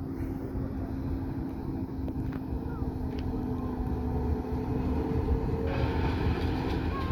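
1909 Buffaud-Robatel 031T tank steam locomotive running with a steady low rumble and hum; a hiss comes in near the end.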